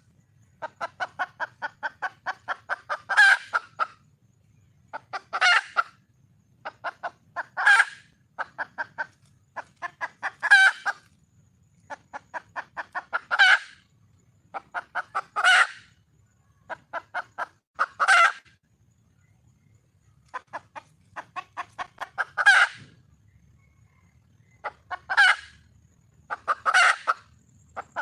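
Wild junglefowl hen calling for a male: runs of quick clucks, each rising into one loud squawk, repeated every two to three seconds with a short pause partway through.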